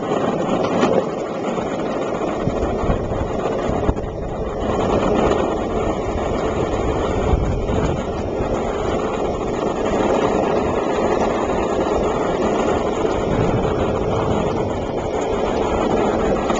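Skateboard wheels rolling steadily over pavement, a continuous rumble, with wind buffeting the microphone.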